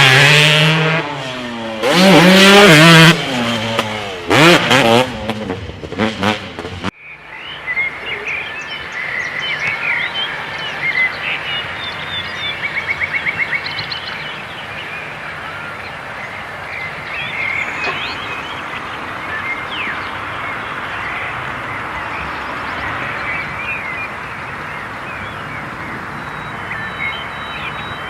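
Husqvarna TC125 two-stroke motocross bike revving hard several times, its pitch rising and falling. About seven seconds in it cuts off suddenly to steady outdoor background noise with birds chirping.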